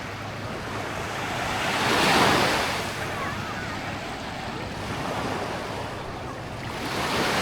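Small waves breaking gently and washing up the sand, one wave swelling and falling away about two seconds in and the next building near the end.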